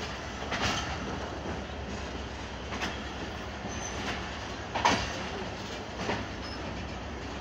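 Passenger train coaches rolling slowly into a station, heard from an open coach doorway: a steady rumble of wheels on track with a few irregular sharp clanks, the loudest about five seconds in, and a couple of brief faint high wheel squeals.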